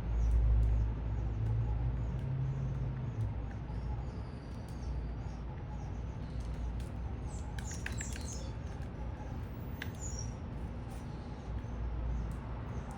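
A few small birds give short, high chirps, a quick cluster a little past the middle and one more shortly after, over a steady low rumble of city background that is loudest in the first few seconds.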